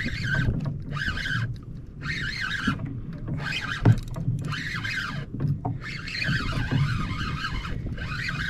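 Fishing reel cranked in repeated short bursts, each under a second, as a hooked fish is reeled up from deep water.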